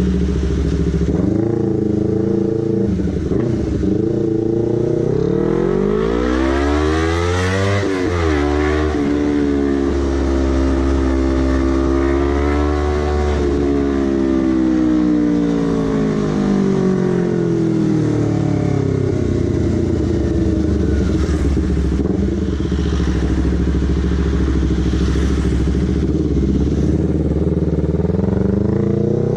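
Honda CBR250RR motorcycle engine and exhaust heard while riding. The revs climb steeply to a peak about 8 seconds in and drop, then rise and fall more gently over the middle, and start climbing again near the end.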